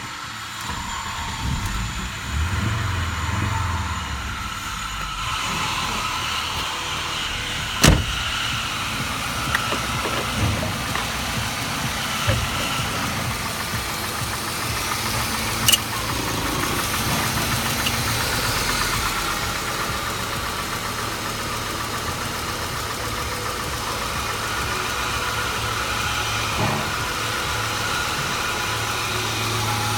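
Audi 100's 2.3-litre AAR inline five-cylinder petrol engine idling steadily, with a few sharp clicks, the loudest about eight seconds in.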